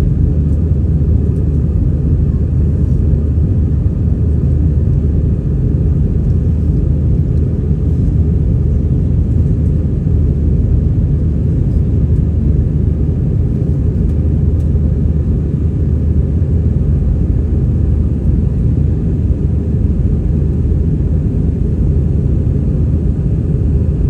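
Airbus A320-200 airliner climbing after takeoff: a steady, unchanging low rumble of engines and airflow.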